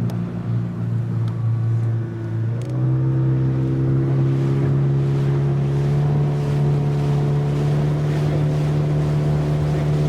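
Motorboat engine running with water rushing along the hull. About two and a half seconds in the engine pitch rises a little and it gets louder, then holds steady.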